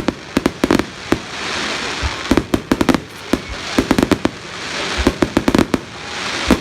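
Fireworks going off: clusters of rapid sharp bangs and crackles about every second and a half, with a hissing fizz between the clusters.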